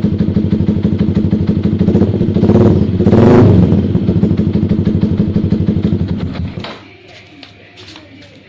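Motorcycle fitted with an Ara Racing 20 aftermarket exhaust idling with a steady pulsing beat, blipped twice a few seconds in, then shut off about two-thirds of the way through.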